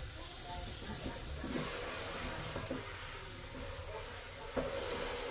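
Pieces of chicken sizzling as they fry in a pot, with light clicks of a utensil and a sharper knock about four and a half seconds in, after which the sizzle is louder.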